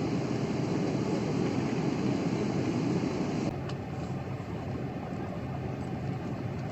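Steady airliner cabin noise heard from inside the cabin, a low rushing hum. About three and a half seconds in it drops abruptly to a slightly quieter level, with a faint click.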